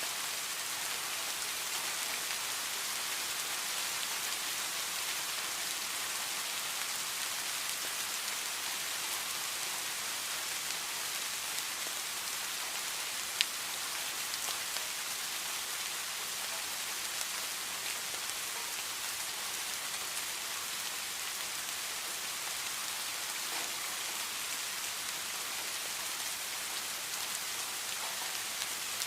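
Steady rain falling, an even hiss with many small drop ticks and one sharper drop click about halfway through.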